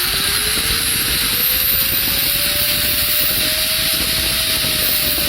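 Angle grinder running free, its speed turned up through a light-dimmer speed control: the motor whine rises steadily, levels off at full speed, then begins to drop near the end as the speed is turned back down.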